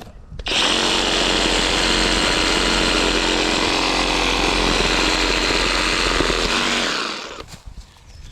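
Skil cordless brushless reciprocating saw running at steady speed while cutting through a tree branch. It starts about half a second in and winds down and stops about seven seconds in.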